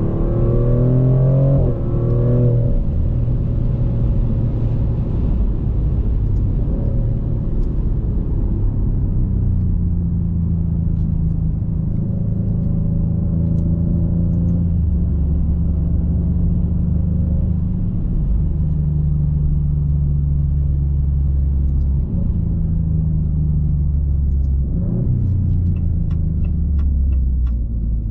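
Twin-turbo 3.0-litre Nettuno V6 of a 2024 Maserati GranTurismo Modena, heard from the driver's seat. It pulls with a rising pitch for about two seconds and drops at a gear change, then runs at a steady low drone, stepping in pitch a few times. A few faint clicks come near the end.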